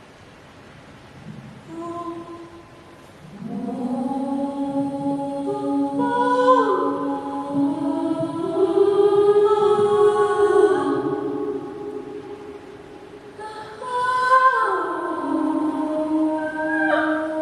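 An AI-generated choir of voices singing long, held chords with several pitches sounding at once. It swells in after a few seconds, thins out past the middle and swells again.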